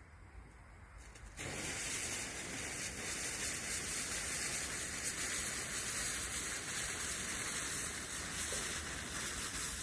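A lit firework fuse hissing steadily, starting suddenly about a second and a half in.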